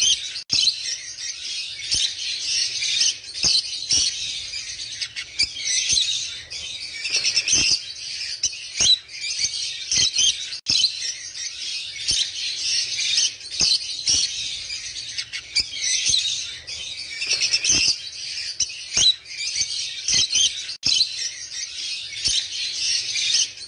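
Many small birds chirping and chattering continuously, high-pitched, with frequent short sharp clicks.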